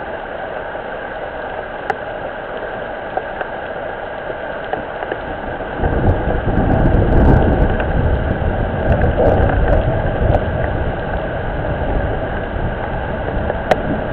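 Steady hiss of rain falling on and around a pond. About six seconds in a louder, uneven low rumble comes in and stays.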